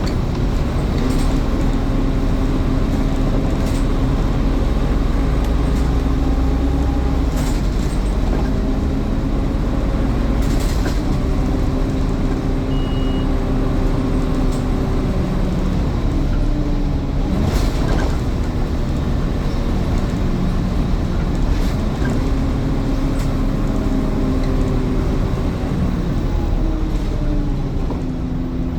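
Scania N230UD double-decker bus's five-cylinder diesel heard from on board, running under way with its engine note stepping up and down several times as it pulls away, changes gear and slows. Scattered short rattles and knocks throughout, with a brief high beep about halfway through.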